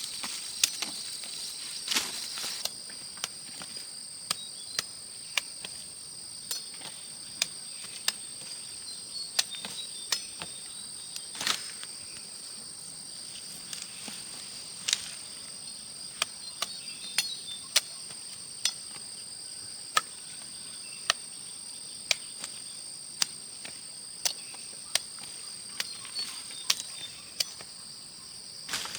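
Insects calling in a steady high-pitched chorus, with sharp irregular clicks or knocks every second or so.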